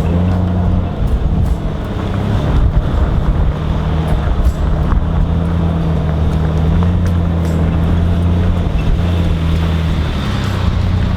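A 4WD's engine running steadily while driving on a dirt track, its pitch stepping up and down with throttle and gear changes.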